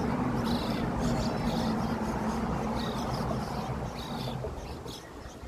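A steady motor hum that fades away over a few seconds, with short high bird chirps repeating throughout.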